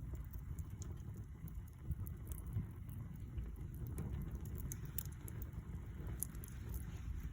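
Campfire burning: a steady low rumble with scattered small crackles and pops throughout.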